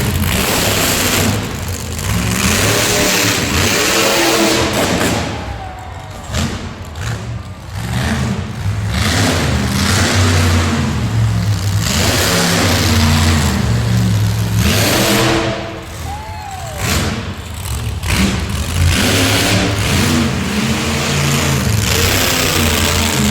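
Motorsport engines revving hard, their pitch climbing and dropping again and again with throttle and gear changes, easing off twice before picking up again.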